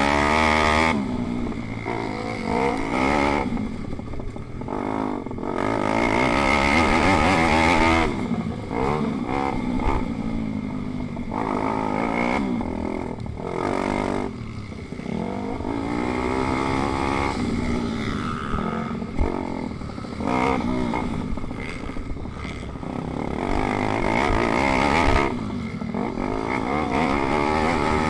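Pit bike engines revving hard, the pitch climbing again and again and dropping back as the riders shift and back off for corners.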